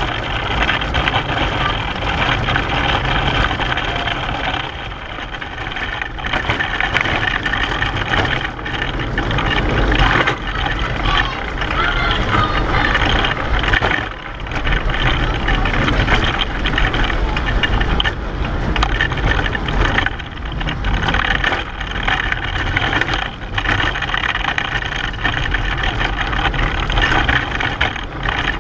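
Pedal car rolling along in a race, heard from on board: a steady noise of its wheels on the road, with many short knocks and rattles from the car's body.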